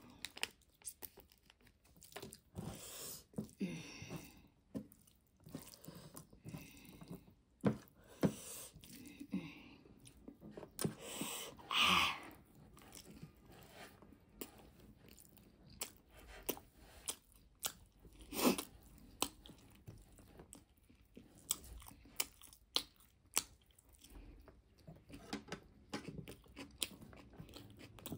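Close-up eating sounds of a person chewing instant noodles picked up with her fingers: wet chewing, smacking and short crunchy clicks, with the loudest moment about twelve seconds in.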